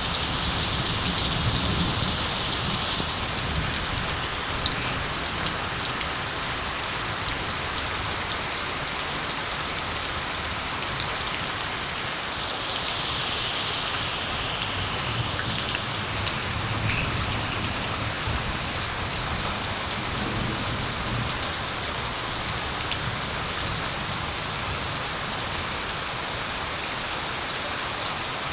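Steady rain falling and pattering on surfaces, with occasional close drip ticks. Low rumbles of distant thunder swell at the start and again past the middle.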